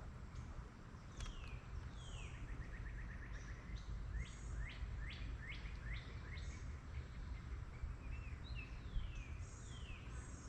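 A songbird calling over and over in quick chirps that slide steeply down in pitch, with a fast trill of short notes about two seconds in. A steady low rumble lies underneath.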